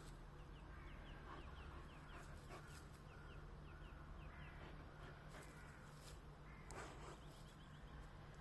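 Faint, near-quiet outdoor background with a small bird chirping: a run of short, falling notes, a few a second, pausing midway and returning near the end. A few soft scuffs sound alongside.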